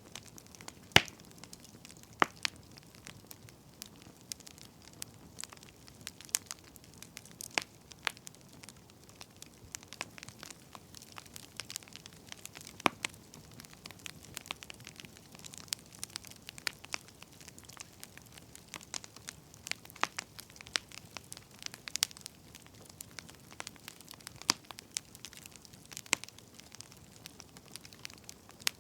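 Wood fire crackling: a soft steady hiss with irregular sharp pops and snaps of burning firewood.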